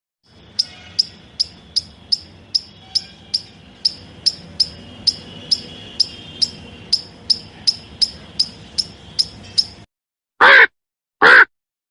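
Short, high animal chirps repeated evenly, about three a second, over a faint background hiss; they stop suddenly, and two loud, harsh calls follow near the end, about a second apart.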